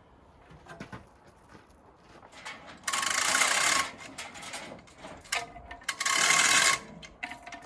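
A hoist lifting a heavy cast-iron milling machine off its pallet. It runs in two bursts of mechanical whirring and rattling, each about a second long: one about three seconds in and one about six seconds in.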